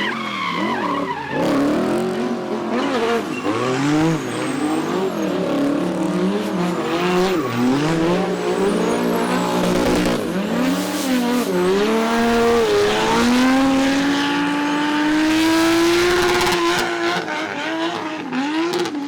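Racing car engine on a hillclimb run. Its pitch swings up and down over and over with throttle and gear changes, then holds one long, slowly rising pull about two-thirds of the way in.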